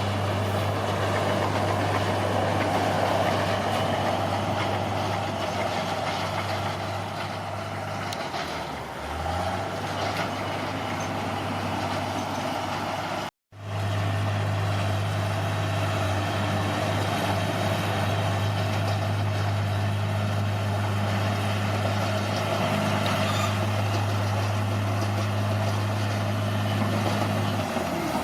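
Bulldozer's diesel engine running at work with a steady deep hum. It sags briefly about a third of the way in, then picks up again. The sound cuts out for an instant about halfway through, then carries on as before.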